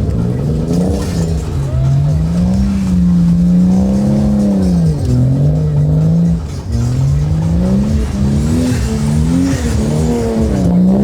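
Twin-turbo Toyota Supra engine revving hard, its pitch rising and falling over and over as the car drifts through donuts, with tyres squealing, most of all in the last few seconds.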